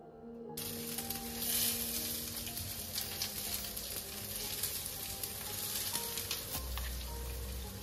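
Frying sizzle with crackles, starting suddenly about half a second in, over soft background music.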